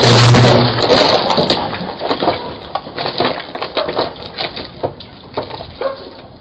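Car crash: a loud crunching collision noise that dies away over the first couple of seconds into scattered clatters and clinks of debris, growing fainter.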